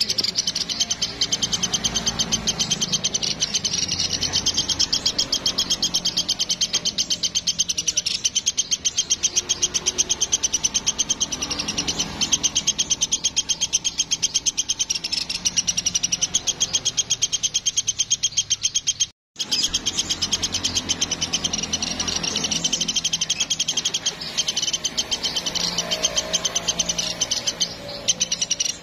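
Woodpecker (platuk) calling in a rapid, continuous high rattling trill of evenly spaced notes, broken once by a brief total silence about two-thirds of the way through.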